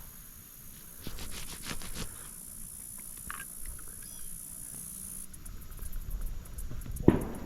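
Insects buzzing steadily at a high pitch, the buzz turning into rapid pulsing after about five seconds. A quick run of clicks comes about a second in, and a sharp knock near the end.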